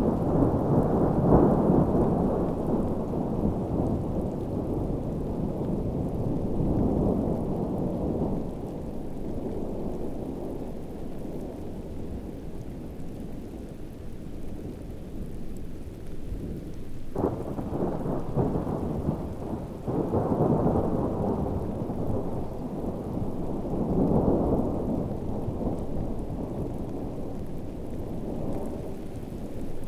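Thunderstorm: heavy rain with rolling thunder. Several low rumbles swell and fade, the loudest about a second in, one breaking suddenly a little past the middle, and more around two-thirds of the way through.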